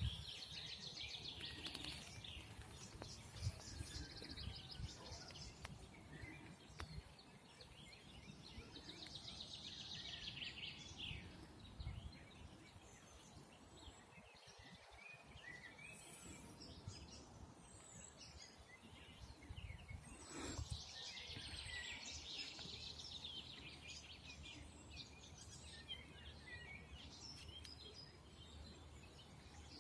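Songbirds singing: faint trilling phrases and scattered chirps that come in bursts of a few seconds with quieter gaps between, over a low steady rumble of background noise.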